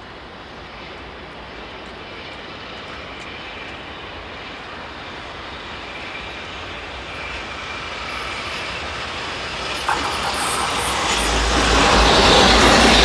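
Freight train approaching along the track, its rumble growing steadily louder, with a sharp click about ten seconds in as the wheel-on-rail noise builds.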